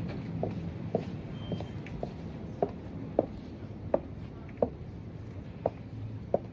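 Heeled boots clicking on a hard floor, one sharp click per step at a steady walking pace, the steps spacing out a little later on. A low steady hum runs underneath.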